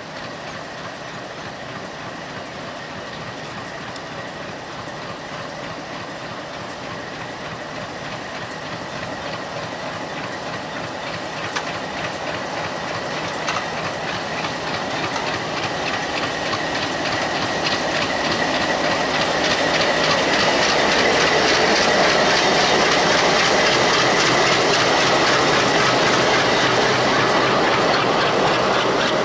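Diesel-electric locomotive pulling an express passenger train away from the station, its engine and running gear growing louder as it approaches and passes. A steady high whine runs through it. Then the coaches roll by with wheels clacking over the rail joints.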